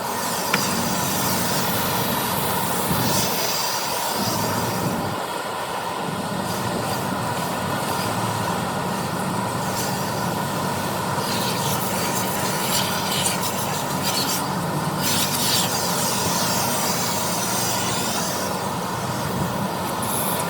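Car wash equipment running steadily, with short bursts of high hissing now and then.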